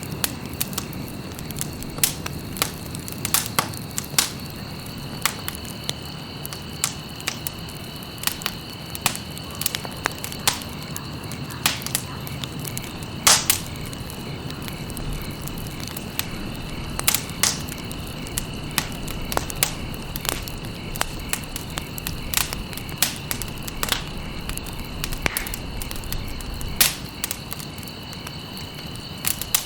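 Campfire crackling and popping, with many irregular sharp snaps over a low rumble of burning. A steady high tone runs underneath.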